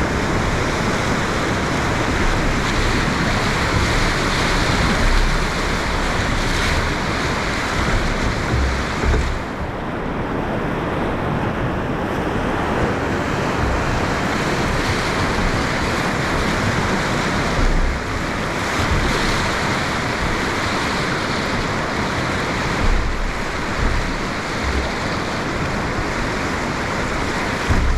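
Whitewater rapid rushing and splashing around a drift boat, with wind buffeting the microphone in irregular low thumps.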